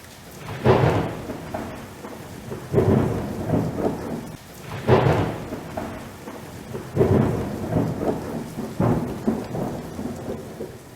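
Newcomen atmospheric beam engine working, each stroke a rumbling, rushing surge that comes round about every two seconds.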